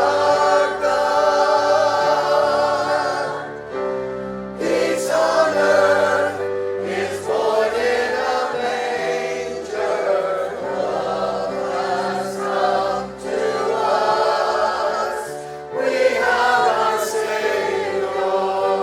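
Choir singing a Christmas worship song with instrumental accompaniment, in long held chords over a moving bass line.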